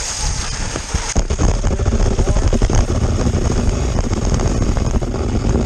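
Cross-country skis running fast down a steep snowy track, a steady hiss and scraping, with heavy wind rumbling on the microphone.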